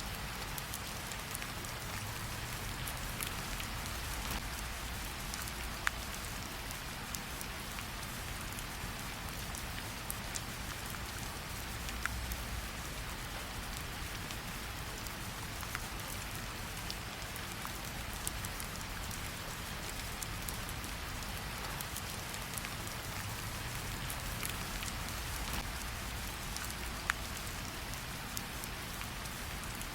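Steady rain falling, with a low rumble beneath and a few sharp crackles from a wood fire, the clearest about 6, 12 and 27 seconds in.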